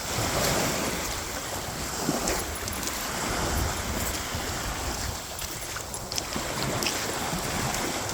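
Small sea waves breaking and washing onto the beach, with wind buffeting the microphone.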